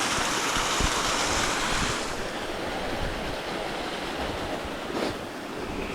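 Steady rush of flowing water in a river or stream, louder for the first two seconds and then quieter, with a short bump about five seconds in.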